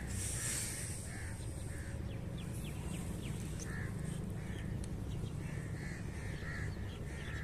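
Birds calling in the background: short calls come singly and in small clusters, over a steady low rumble.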